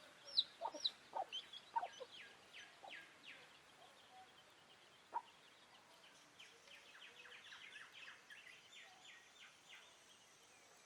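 Wild birds calling and chirping: a cluster of short, loud calls and high falling chirps in the first couple of seconds, then quick runs of high, falling notes, twice, over a faint outdoor hiss.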